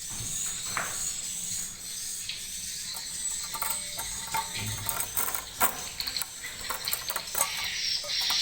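Edible-nest swiftlets twittering in high repeated chirps, with a run of sharp clicks in the second half.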